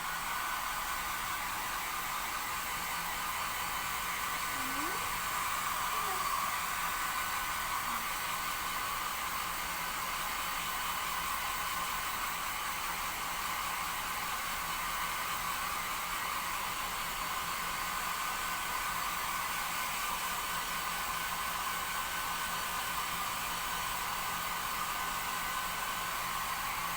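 Shower spray running steadily onto a cockatiel during its bath, a constant even rushing hiss.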